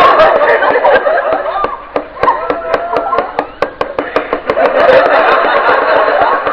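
Knife point stabbing rapidly onto a tabletop between splayed fingers, a run of sharp, uneven taps at about four a second, with people's voices over it.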